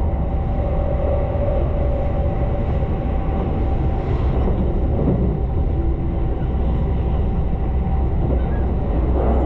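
Tobu limited express Ryōmō train running along the line, heard from inside the passenger car: a steady low rumble of wheels on rails with a faint steady hum.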